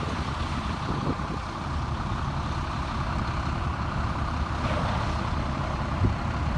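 Fire apparatus engines running steadily: a low rumble with an even hiss above it.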